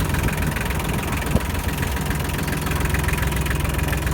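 Kubota L2402DT tractor's diesel engine idling steadily, with a single sharp click about a second and a half in.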